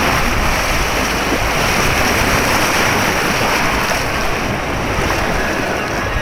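White water rapids rushing loudly and steadily close to the microphone, with some wind noise on the microphone.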